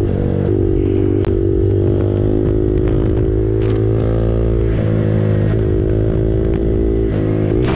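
KTM RC 390's single-cylinder engine running through an SC Project aftermarket exhaust while riding, at fairly steady revs with a few small shifts in pitch.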